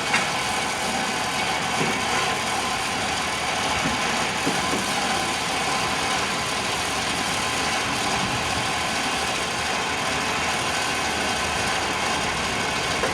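Steady mechanical running noise of a motor, even throughout, with a few faint knocks.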